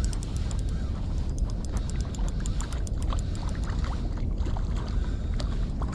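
Wind rumbling steadily on the microphone, with a run of small, fast, irregular clicks over it.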